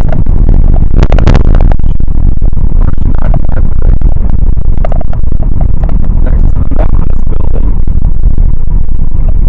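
Loud road and wind rumble of a moving car, heard from inside and overloading the microphone. There is a short rattling, crackling burst about a second in.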